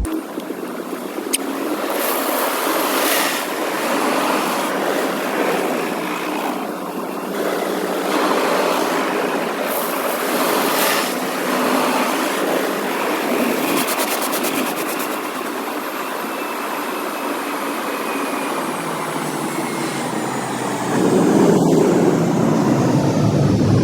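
Automatic car wash heard from inside the car: a continuous rush of water spray and washing machinery against the body, with surges now and then. It gets louder and heavier about three quarters of the way through.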